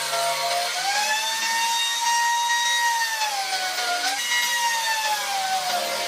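Power tool running on wood, its whine dipping and rising in pitch as it is loaded and eased off, over the hiss of cutting.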